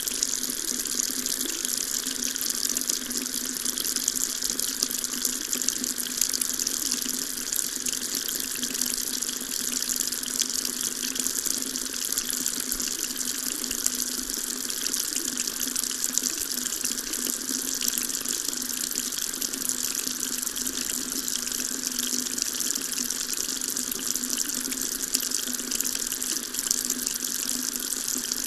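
Water tap running steadily, a continuous hiss and splash of the stream with no change in flow.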